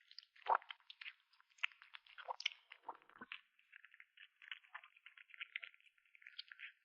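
A kitten chewing meat: a fast, irregular run of small wet clicks and crunches, with a few louder bites in the first half.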